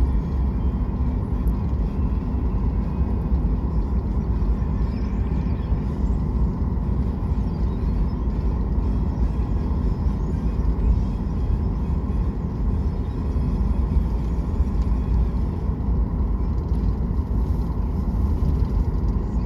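Jet airliner cabin noise during takeoff or climb: a steady, loud engine rumble with a faint steady whine over it.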